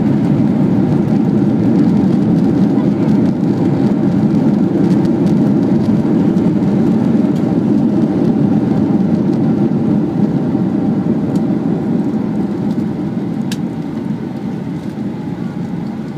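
Loud, steady rumble of a Boeing 737-900ER's CFM56-7B jet engines and rushing air, heard from inside the passenger cabin during the landing. It eases off over the last few seconds as the aircraft slows.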